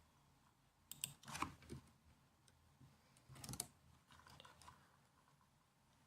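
Quiet laptop keyboard keystrokes, tapped in short scattered bursts: a cluster about a second in, another around three and a half seconds, and a few lighter taps shortly after.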